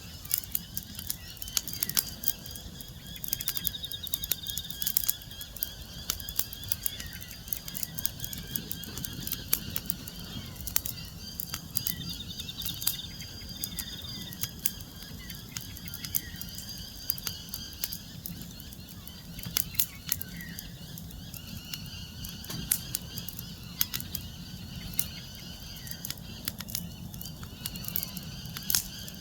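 Wood fire crackling, with frequent irregular sharp pops over a low steady rumble. Faint high chirping calls sound in the background.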